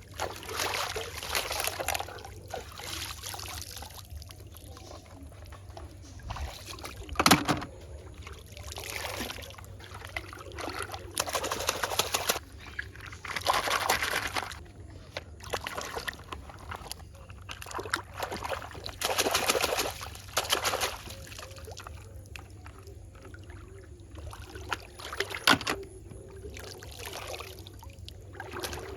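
Water sloshing and splashing in repeated bursts of a second or two each, with a sharp knock about seven seconds in and another near the end.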